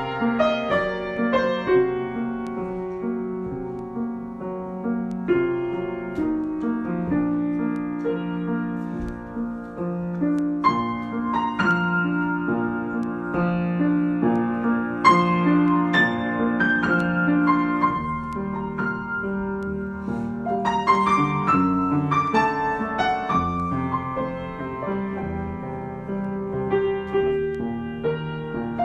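Solo piano being improvised: slow, sustained chords under a melody that grows busier after about ten seconds and again near the twenty-second mark.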